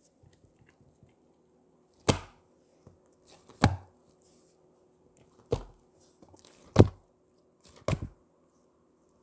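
Slime being squeezed and played with by hand, giving five sharp pops or snaps about a second or so apart, with faint sticky crackling in between.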